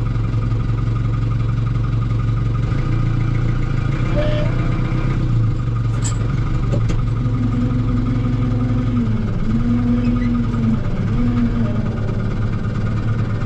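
Tractor engine running steadily while the tractor is driven. About halfway through a whine joins it and dips in pitch several times, with a couple of short clicks in between.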